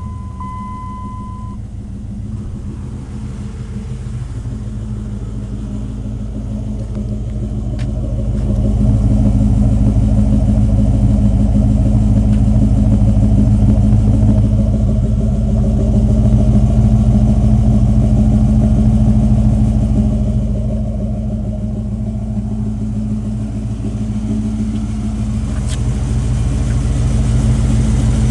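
2003 Dodge Ram's 5.7-litre Hemi V8 idling through a dual Flowmaster Super 44 exhaust, a deep, steady rumble that gets louder about eight seconds in and again near the end. A steady electronic chime tone sounds for the first second or so.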